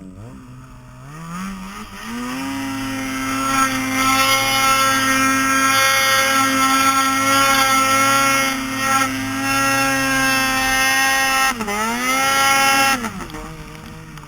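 An engine revving up and held at high, steady revs for about nine seconds. Near the end it drops off sharply, revs up once more and falls away.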